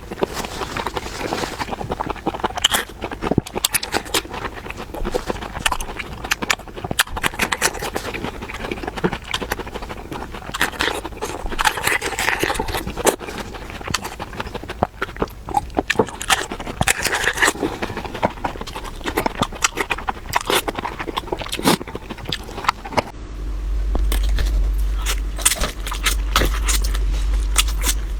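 Close-miked eating sounds: fast chewing and biting, a dense run of irregular wet clicks and smacks. About 23 seconds in, a steady low hum comes in under the chewing.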